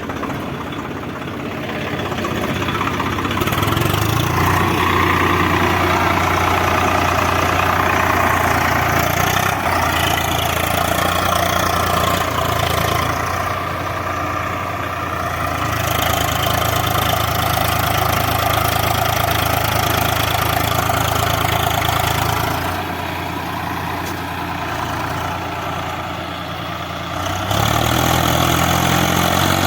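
Swaraj 744 FE tractor's three-cylinder diesel engine running, its speed rising and falling. It gets louder a few seconds in, eases off around the middle and again later, then picks up near the end.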